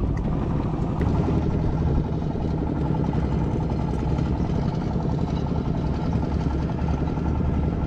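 Strong wind buffeting the microphone, a steady low rumble with no clear breaks.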